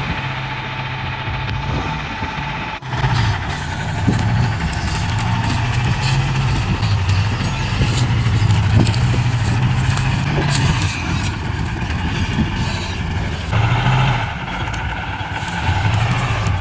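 Heavy truck engine running steadily, with knocks and rattles over it and a brief break about three seconds in.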